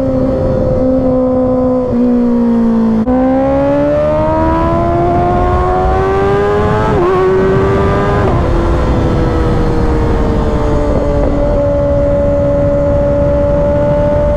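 2024 Kawasaki Ninja ZX-6R's inline-four engine running under way with heavy wind rush. The engine note rises steadily for several seconds as the bike accelerates, drops sharply about eight seconds in, then holds steady.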